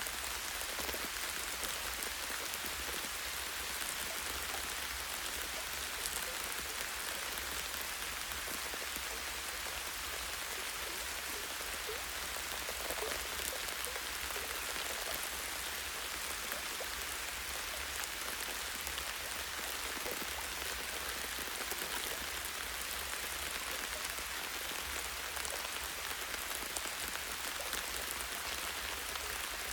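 Light, steady rain falling on leaves and a tree branch, a dense patter of many small drops with now and then a larger drop standing out.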